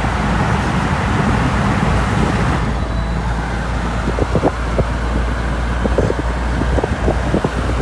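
Steady rumble of road vehicle noise, like a car driving, with the hiss dropping off about two and a half seconds in and scattered light clicks in the second half.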